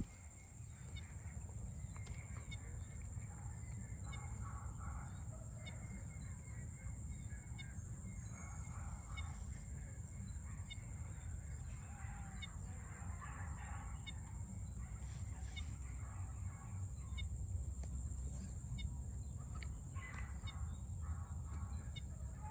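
Domestic fowl calling now and then over a steady low rumble and a constant high, thin hiss.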